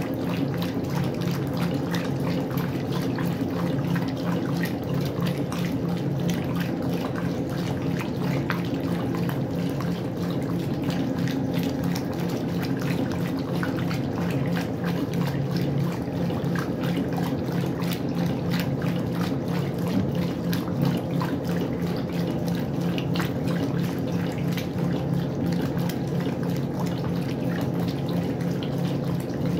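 Westinghouse washing machine running with water flowing and splashing inside it, over a steady hum.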